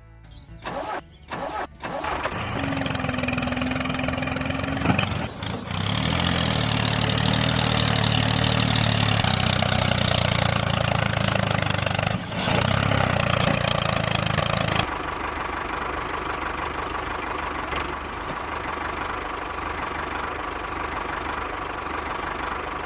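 Small motor of a homemade toy tractor switched on with a few short bursts, then running steadily. About 15 seconds in it drops in level, leaving a steadier, thinner run with a faint whine.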